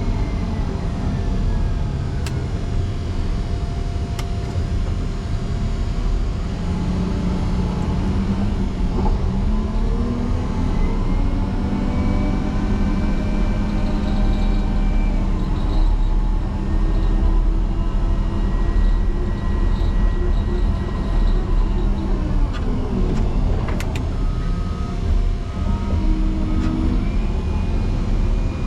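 Caterpillar 140M motor grader's diesel engine working under load as the blade pushes into a deep snow drift, its pitch dipping and rising several times, with a few sharp clicks.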